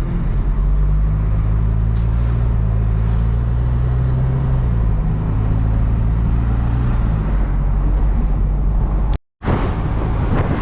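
Hino cab-over box truck's diesel engine running steadily under way, heard from the cab, with its note shifting about halfway through. About nine seconds in the sound cuts out for a moment and gives way to rushing wind on the microphone.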